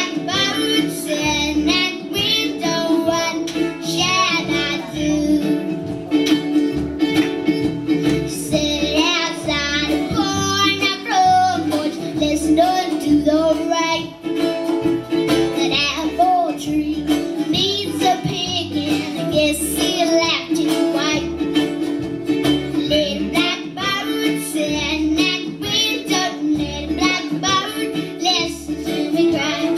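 A young girl singing a song with a wavering vibrato, accompanied by acoustic guitar and a steady bass line.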